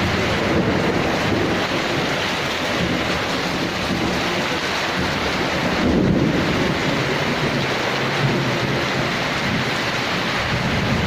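Heavy rain pouring steadily during a thunderstorm, with a low rumble of thunder swelling about six seconds in.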